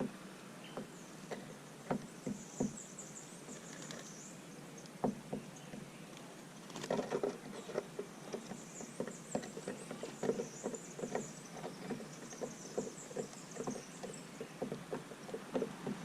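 Small birds pecking seed at a bird feeder: irregular quick taps, sparse at first and coming thick and fast from about halfway through, with faint high chirping in the background.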